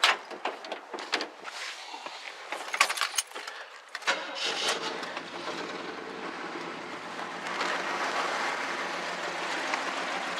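A few clicks and rattles, then about four seconds in the 1976 GMC Sierra Classic's small-block 350 V8 starts and settles into a steady, smooth idle. It runs a little louder from about seven seconds in.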